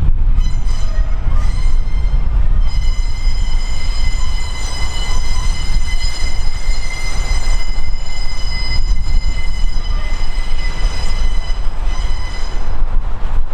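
Train wheels squealing on a curve as a train moves slowly through the yard: one steady high squeal that swells a few seconds in and fades near the end, over a heavy low rumble.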